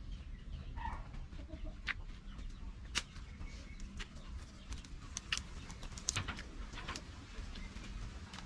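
A person chewing food with a mouth close to the microphone, giving irregular sharp clicks and smacks about once a second, with birds calling faintly in the background.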